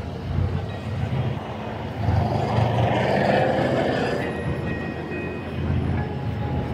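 A motor vehicle's engine running as a steady low rumble, swelling louder for a couple of seconds around the middle.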